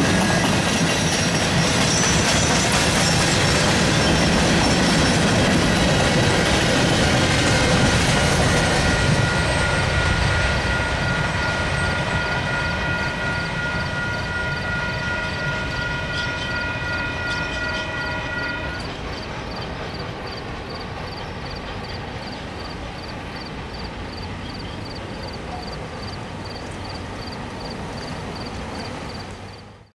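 Tail end of a freight train, empty ribbon-rail flatcars, rolling past with wheels clattering, then fading as the train moves off. Several high steady tones hang on until about two-thirds of the way through.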